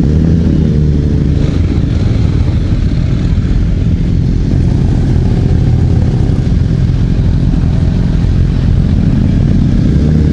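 Motorcycle engine running at a steady speed, a continuous low drone whose pitch holds fairly even.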